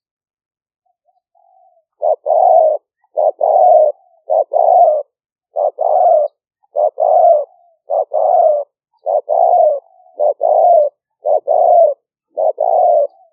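Spotted dove (นกเขาใหญ่) cooing, a caged decoy bird's call used to lure wild doves. Each call is a short clipped note followed at once by a longer note, repeated about once a second, eleven times after a faint note near the start.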